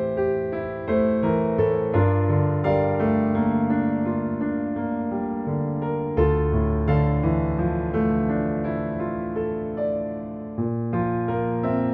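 Background piano music: a slow tune of single notes over sustained chords.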